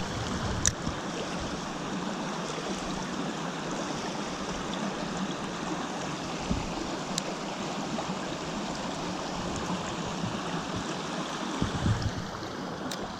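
Small mountain stream running steadily over rocks, with a few sharp clicks and a couple of low thumps near the end.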